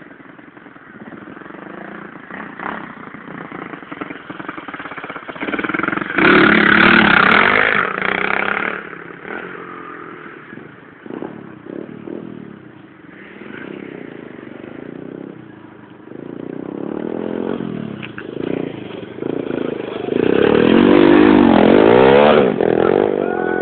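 Pit bike engines revving as the bikes ride past, the engine note rising and falling with the throttle. Two passes come close and loud, about a quarter of the way in and again near the end.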